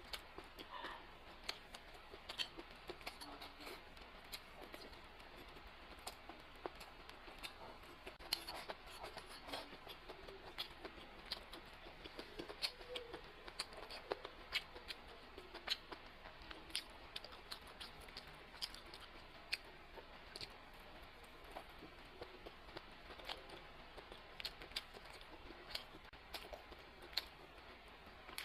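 A person eating close to the microphone: irregular clicks and smacks of chewing, at a low level.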